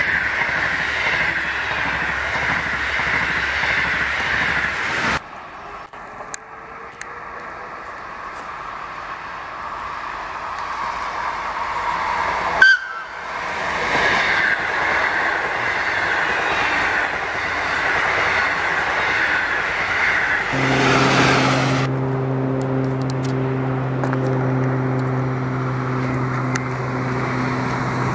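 Passenger trains passing at speed, their coach wheels rolling on the rails in a steady rush, in several short takes. About twenty seconds in, an approaching electric locomotive sounds its horn in one long, steady blast of several seconds.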